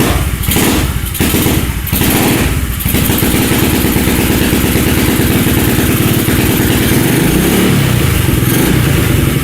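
SSR 125 pit bike's single-cylinder four-stroke engine running, uneven at first with several quick rev pulses in the first three seconds, then settling into a steady idle with a brief rise and fall in revs near the end. It is running again after its blocked pilot jet was cleaned out.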